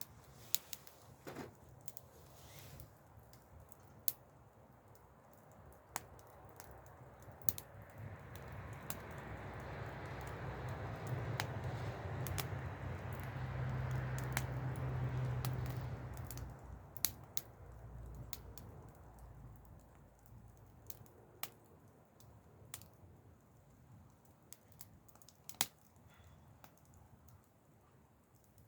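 Wood fire crackling, with sharp, irregular pops and snaps. In the middle a broad rushing sound with a low hum swells up and fades away over about ten seconds.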